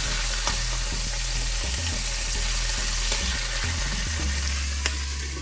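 Pieces of fish head sizzling as they fry in mustard oil in a pan, a steady hiss, with a couple of sharp clicks about a second in and near the end.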